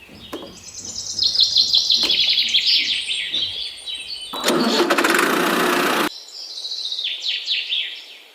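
Small birds chirping in quick, high, falling notes, cut through by a burst of dense mechanical noise of about two seconds past the middle that starts and stops abruptly.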